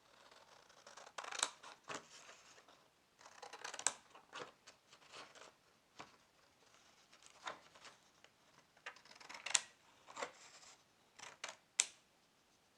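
Irregular sharp clicks and short rustles of close-up handwork, a dozen or so spread unevenly, the loudest about a third of the way in and near the end.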